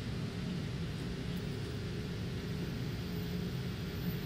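Interior running noise of a moving Taiwan Railway EMU900 electric multiple unit: a steady low rumble from the wheels and car body, with no sudden events.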